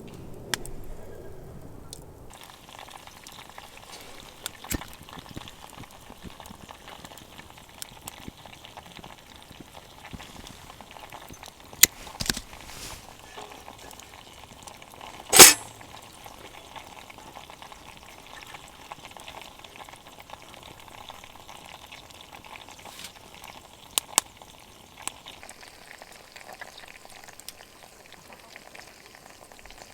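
Wood campfire crackling steadily, with occasional sharp pops, one loud pop about halfway through.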